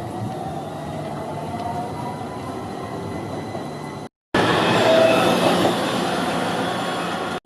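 Tram running on its rails, with a faint whine rising in pitch as it moves. After a short break about four seconds in, the running noise is louder.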